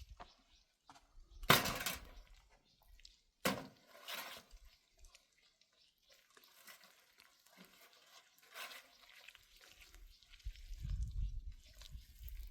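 Two sharp knocks about two seconds apart, the first the loudest, among scattered faint clicks, with a low rumble rising near the end.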